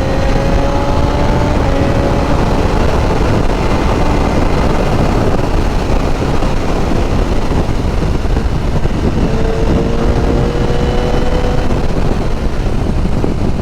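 Heavy wind rush over the microphone at road speed, with a BMW S1000R's inline-four engine running underneath, its pitch climbing slowly near the start and again from about nine seconds in.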